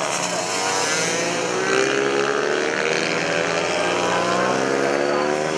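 Several small mini bike racing motorcycle engines running at high revs together, their pitch rising and falling as they accelerate and ease off.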